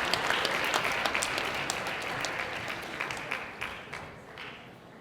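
Audience applauding, the clapping thinning out and dying away over the last two seconds.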